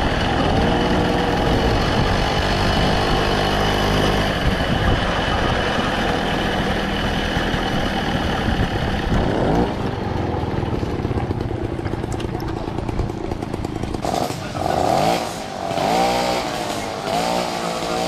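Small two-stroke moped engines running and revving, their pitch rising and falling several times over a steady rushing noise.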